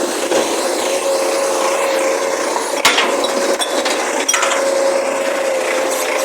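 Recycling truck running with a steady whine over a mechanical clatter, and one sharp bang about three seconds in.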